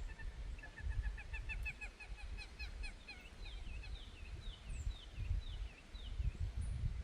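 Bird calling: a quick run of repeated notes, then a slower series of higher notes that drop in pitch, with a low rumble underneath.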